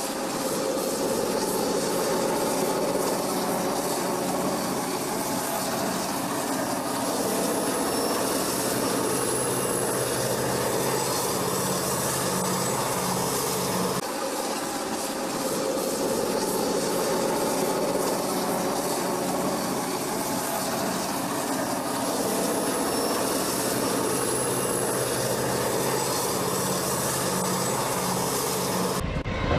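Freight train rolling along the rails with a steady rumble and wheel noise, with no speech over it.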